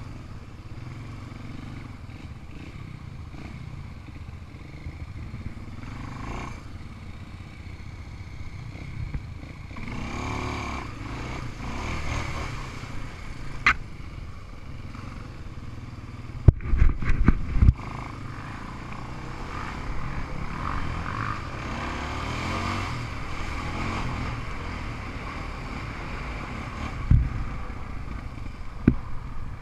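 Off-road vehicle engine being ridden, running with revs rising and falling a couple of times, and a cluster of loud knocks and bangs about halfway through, with two more near the end.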